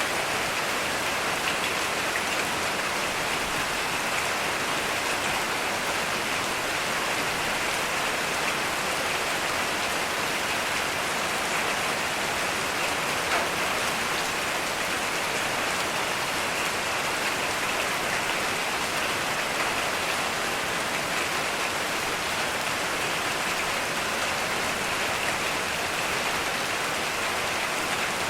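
Heavy rain falling steadily, an even, unbroken wash of drops with no thunder.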